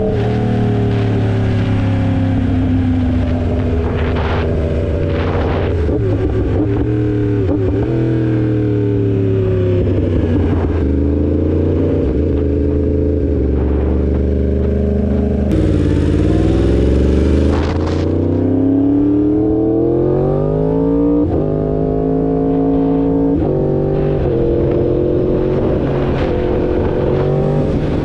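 2016 Yamaha R1's crossplane inline-four engine under way, its revs climbing and dropping through gear changes, with a long steady pull rising through the second half broken by quick upshifts. A rushing hiss comes in briefly around the middle.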